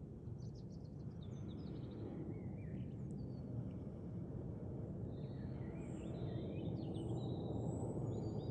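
Several birds chirping and whistling over a steady low rumble that slowly grows louder.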